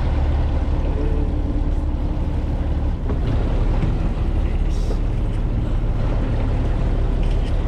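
Steady low rumble of a fishing boat's engine mixed with wind buffeting the microphone on deck.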